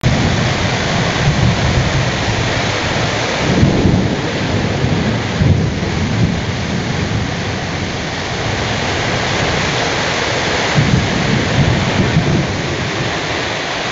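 Heavy rain pouring down in a loud, steady hiss, with low rumbles swelling and fading several times.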